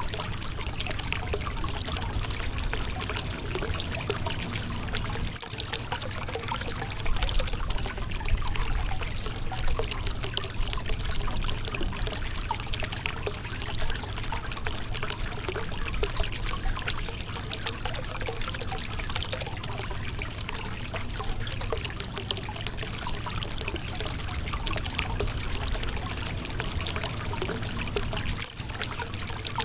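Water flowing and splashing over the rocks of a shallow riverbed, a continuous babbling and trickling with a low rumble underneath.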